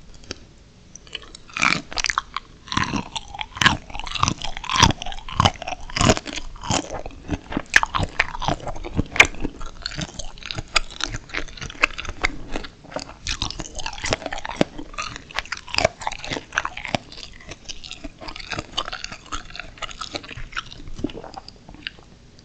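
Steamed shrimp being bitten and chewed, extremely crunchy, with rapid crunches that start about a second and a half in, are loudest in the first half, and thin out near the end.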